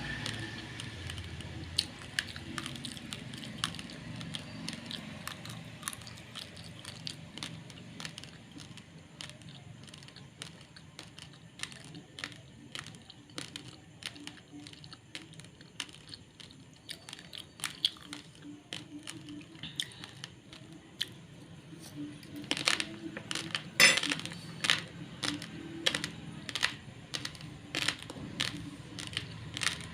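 Raw basmati rice grains being crunched between the teeth: sharp, irregular cracks, coming faster and louder for a few seconds about three quarters of the way in.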